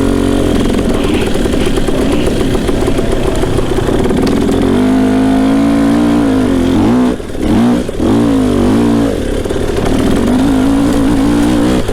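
Dirt bike engine running under changing throttle, its pitch rising and falling, with a short throttle-off dip about seven seconds in before it picks back up.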